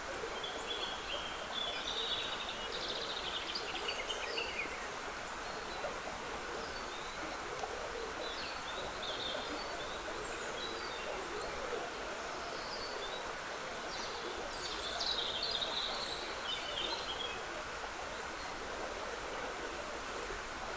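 Trickling woodland stream as a steady rush of water, with songbirds singing in short phrases above it, the clearest a little after the start and again about three-quarters of the way through.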